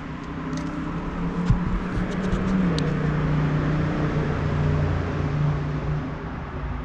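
A motor vehicle's engine passing by, growing louder and dropping in pitch partway through before fading.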